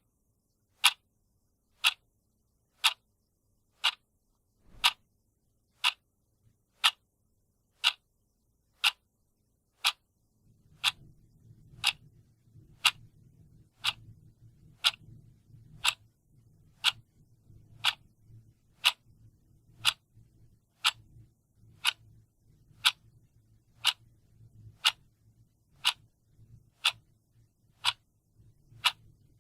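Clock ticking steadily, one sharp tick a second. A faint low rumble comes in beneath the ticks about ten seconds in.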